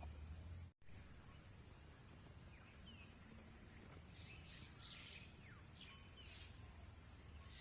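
Faint outdoor ambience: an insect's high, pulsing trill repeating about three times a second, with a few short falling bird chirps about four to six seconds in.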